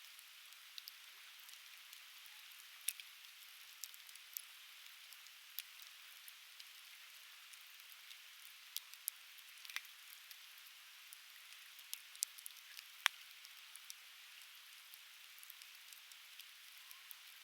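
Conifer firewood burning, crackling with scattered sharp pops and snaps, the loudest about thirteen seconds in, over a steady hiss.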